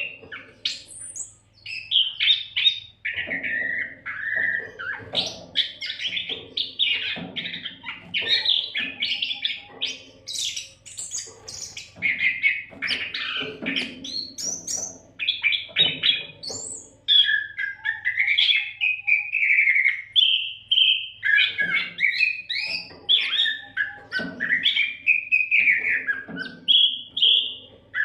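Oriental magpie-robin (kacer) singing a loud, continuous, varied song of rapid whistles, chirps and slurred phrases, without pause.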